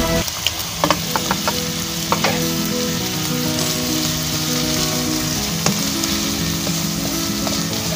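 Boneless chicken pieces sizzling in oil in a non-stick frying pan as a yogurt and spice mixture is added and stirred in with a spoon. The spoon clicks against the pan several times in the first couple of seconds, over a steady sizzle.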